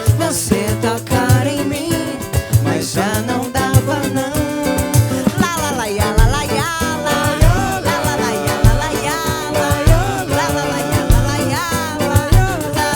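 Samba band playing, a voice singing a melody over percussion and a drum kit keeping a steady beat.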